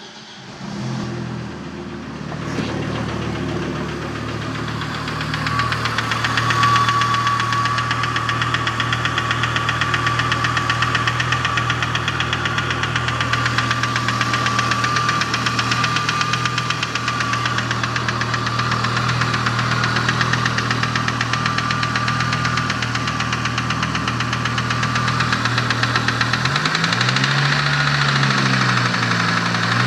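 Audi S6 engine starting and then running with a fast, even knocking rattle and a thin steady whine over it. Near the end the revs rise and fall twice. These are abnormal noises, the sign of a fault.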